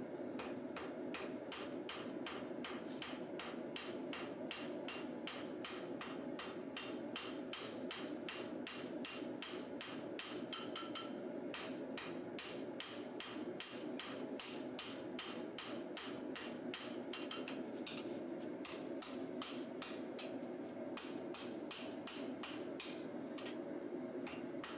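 Hand hammer striking a hot steel katana blade on an anvil, drawing out the bevel of the cutting edge with rapid, even blows about three a second and a couple of brief pauses near the end, over a steady hum.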